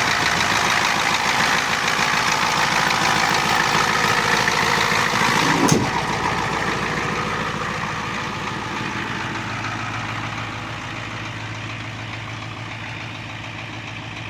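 International/Navistar 7.3 IDI diesel in a 1989 Ford F350 idling steadily after a cold start at about 20°F. One sharp thump about six seconds in, and the engine sound grows gradually quieter toward the end.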